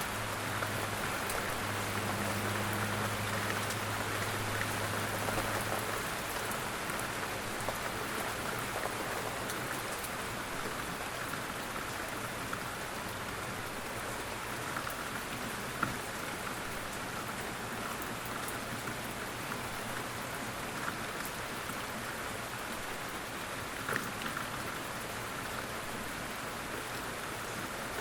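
Quiet, steady rain falling, with scattered single drops ticking now and then. A faint low hum sits under it for the first few seconds.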